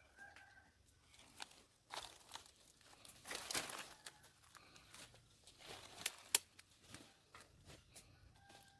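Crinkling, scraping handling noises with scattered sharp clicks, busiest from about two to four seconds in.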